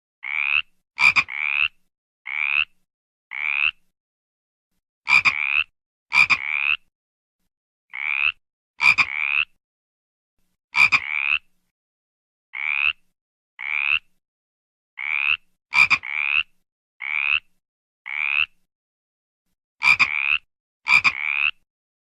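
Frog croaking over and over in a series of short croaks, each about half a second long and spaced unevenly. Several croaks begin with a sharp click.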